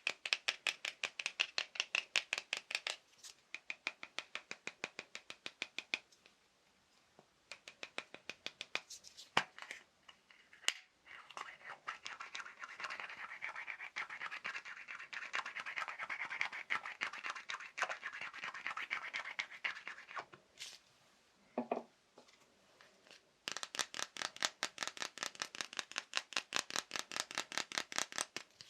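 Fast ASMR tapping on assorted small objects: quick runs of crisp taps with short pauses between them, and a longer stretch of denser, scratchy tapping in the middle.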